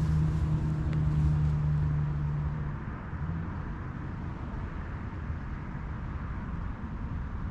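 A steady low motor-like hum that stops about three seconds in, leaving a low rumbling background noise.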